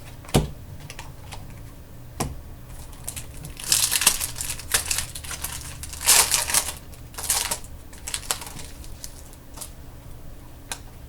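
Trading cards being handled: two sharp taps, then several brief sliding swishes as cards are slid across one another and flicked through.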